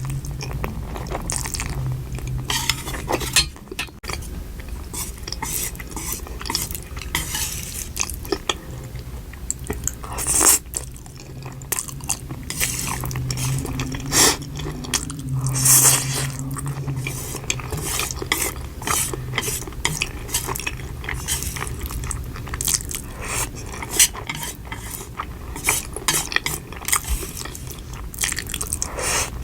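Close-miked eating: cutlery clinking and scraping against a dish, mixed with crunchy bites and chewing, in many short irregular clicks.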